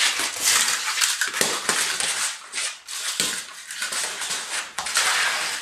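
Rapid, irregular scratchy clattering and scraping from a smooth fox terrier tussling with a remote-controlled plastic toy spider.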